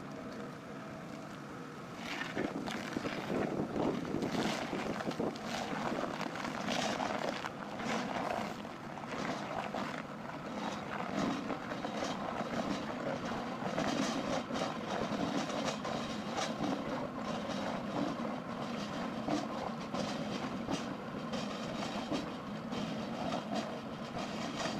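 Heavy machinery engine running steadily, getting louder about two seconds in, with many irregular cracks and knocks over it.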